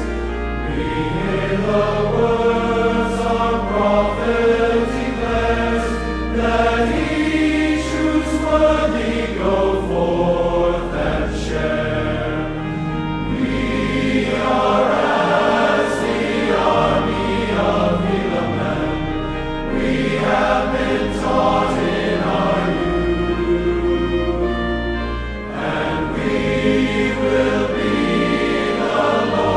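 Choir singing a hymn-like piece over an instrumental accompaniment with a sustained bass.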